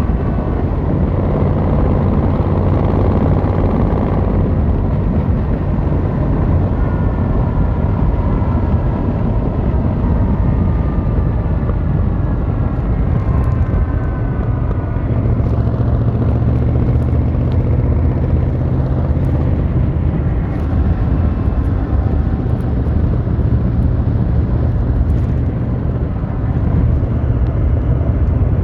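Yamaha XVZ1300 Royal Star's V4 engine and exhaust running under way. The note eases down through the first half and then picks up again about halfway through.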